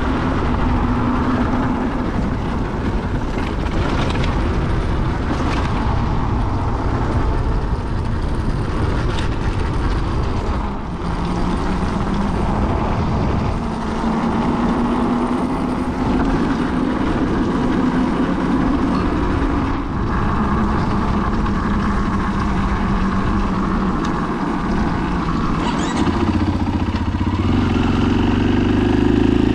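KTM 500 EXC-F's single-cylinder four-stroke engine running on the move, its pitch rising and falling with the throttle through the gears. It gets louder near the end.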